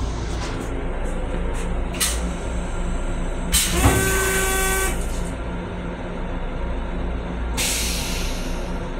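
Long Island Rail Road M7 railcar running, a steady low rumble heard from inside its restroom. About three and a half seconds in comes a loud hiss of air with a brief whistling tone, and another hiss near the end.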